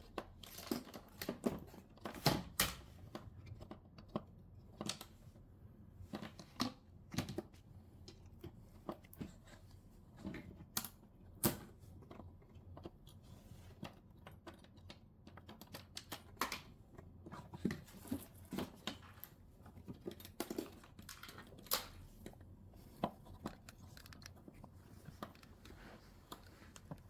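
Scattered small clicks, taps and scrapes of a screwdriver and hands working screws loose on an old television's casing, at irregular intervals.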